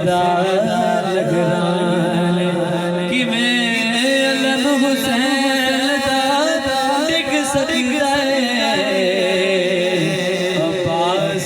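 A man singing a Punjabi naat in a long, wavering, ornamented melodic line over a steady held tone.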